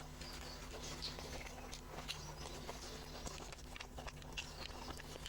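A person chewing a meal close to the microphone, with many small wet mouth clicks and smacks.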